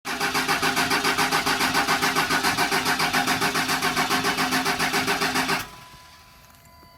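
24-valve Cummins 5.9 L inline-six diesel being cranked by its starter on a cold start, pulsing about five times a second for about five and a half seconds. The cranking then stops abruptly without the engine catching: it is too cold to fire.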